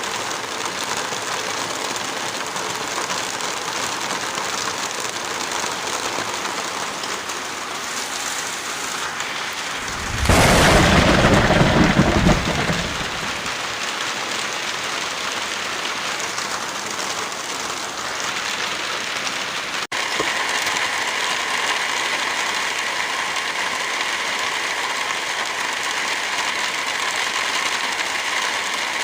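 Heavy rain falling steadily, with a sudden loud clap of thunder about ten seconds in that lasts about two seconds. About two-thirds of the way through the sound cuts out for an instant and comes back slightly louder, with a steady hum under the rain.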